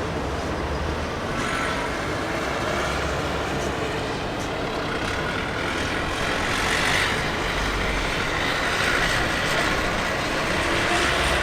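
Jet airliner engines: a steady rushing noise with a faint whine that grows louder around the middle.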